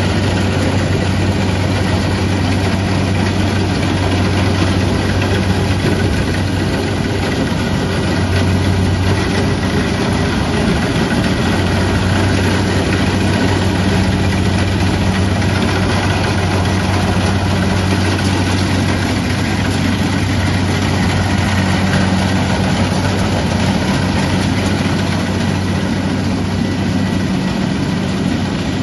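Kubota DC70 Plus rice combine harvester running steadily, its diesel engine giving a constant low drone under an even mechanical din.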